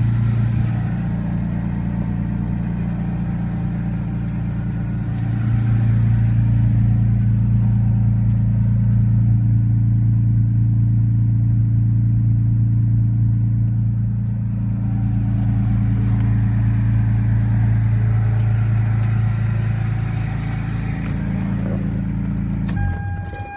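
1995 Toyota Supra's straight-six engine idling steadily, running again after seven years without being started. It gets a little louder about five seconds in and cuts off near the end, followed by a steady high tone and a few clicks.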